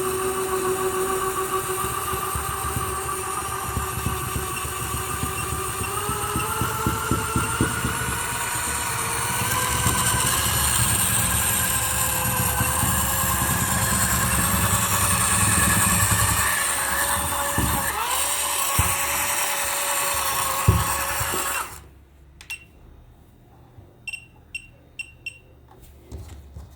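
A small electric motor in a toy running hard, its whine rising slowly in pitch over crackling and hiss, then cutting off suddenly about 22 seconds in. A few faint ticks and short high beeps follow.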